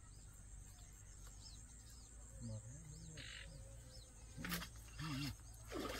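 Quiet outdoor ambience with a few faint, high bird chirps, and low murmured voices now and then.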